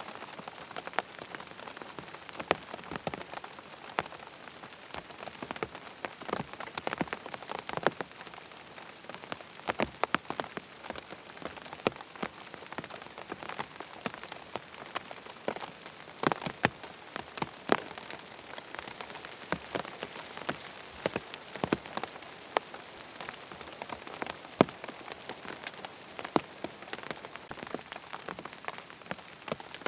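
Steady rain falling, with frequent sharp, irregular ticks of drops striking a hard surface.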